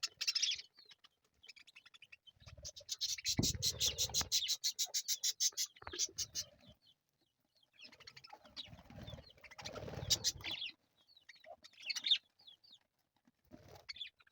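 Budgerigars chirping, with a fast run of short high chirps a few seconds in and scattered chirps later. Bumping and rustling come between the calls.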